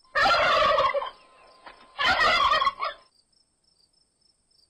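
Turkey gobbling twice: two loud rattling calls of about a second each, the second coming about two seconds in.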